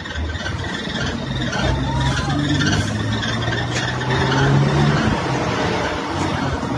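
Large diesel vehicle engines running close by, a steady low hum that swells slightly about four to five seconds in.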